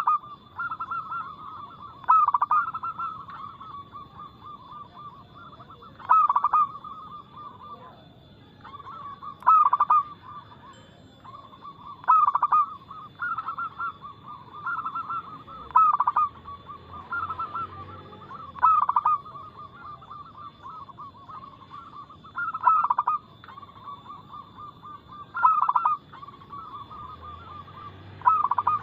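Zebra dove (perkutut) cooing repeatedly: soft rolling trills broken by a loud accented coo about every three to four seconds.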